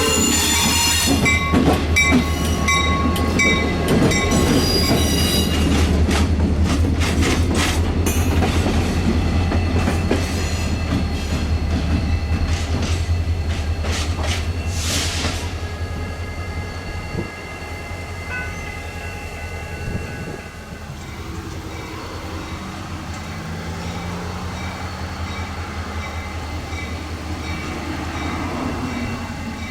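Train passing: a steady low rumble with wheels clattering and knocking over the rails, fading away after about halfway.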